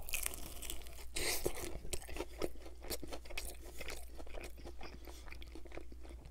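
Close-up chewing of a bite of KFC Extra Crispy fried chicken drumstick, the crisp breading crunching and crackling in irregular bursts.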